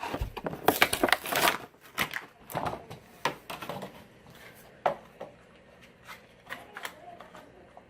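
Plastic and cardboard toy packaging crackling and crinkling as a die-cast monster truck's blister pack is handled and opened, busiest in the first few seconds, then scattered clicks and taps.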